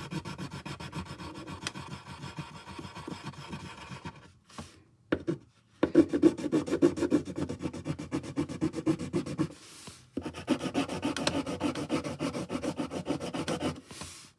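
Yellow colouring tool rubbing quickly back and forth on paper as a drawing is coloured in, with short pauses about four seconds in and again near ten seconds.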